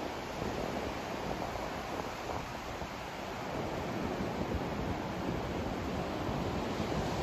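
Continuous white-noise sleep track: an even rushing hiss, heavier and slightly surging at the low end, swelling a little near the end.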